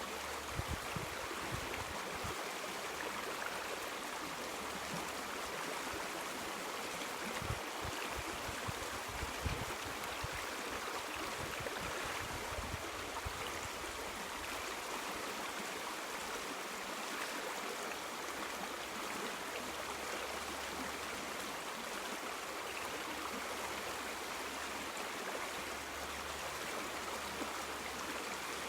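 River water flowing with a steady rushing sound, with a few soft low bumps in the first ten seconds.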